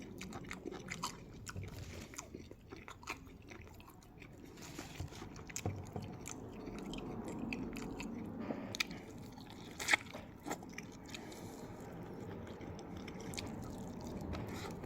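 Chewing and biting on crispy chicken wings, with scattered small crunches and wet clicks; one louder crunch about ten seconds in.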